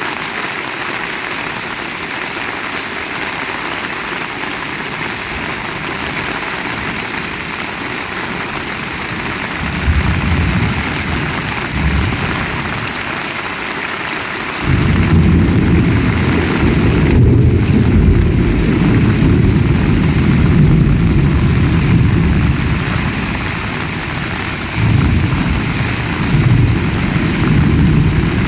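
Steady heavy rain, with low rolls of thunder: a short rumble about ten seconds in, a long roll starting suddenly about halfway and lasting some nine seconds, and another rumble near the end.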